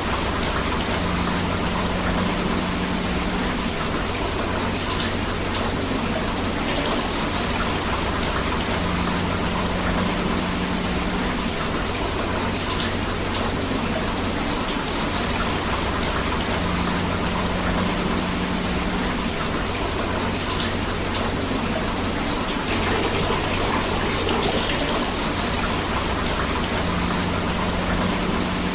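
Rain falling together with a flowing river: a steady, even rush of water with no breaks. A faint low hum comes and goes every eight seconds or so.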